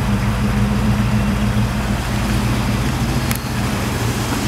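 The Trans Am's 6.6-litre 403 V8 idling steadily through its original exhaust, a quiet exhaust note with no rattles.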